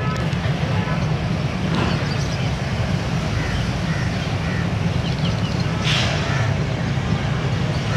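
GEU-40 diesel-electric locomotive's engine running with a steady, slightly pulsing low rumble as the train comes in, with a brief hiss about six seconds in.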